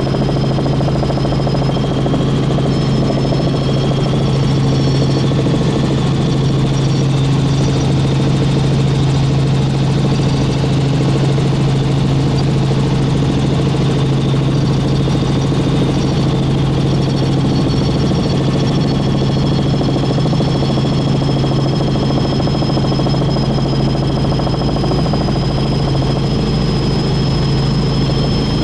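Helicopter in flight, heard from inside the cabin: a loud, steady low drone of rotor and engine with a steady high-pitched whine above it.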